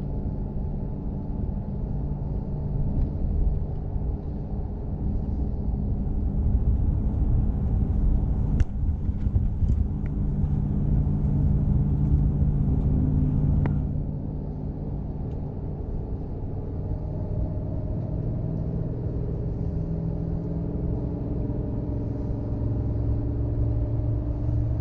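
Engine hum and road rumble heard from inside a vehicle while driving. It gets louder for several seconds in the middle and then eases off, with a few faint clicks.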